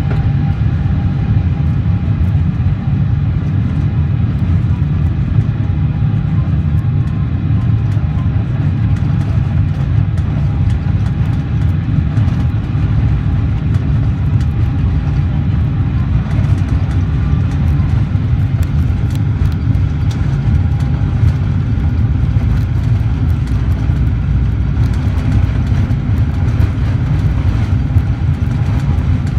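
Boeing 777-300ER cabin noise: a steady, loud low rumble of the GE90 jet engines and airflow, with a faint steady whine above it.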